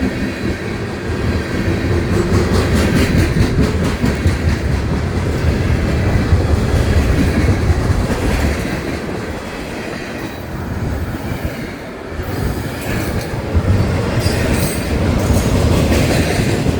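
Freight train of empty trash cars rolling past close by, its wheels clacking over the rail joints with a steady rumble, and a brief high wheel squeal near the end.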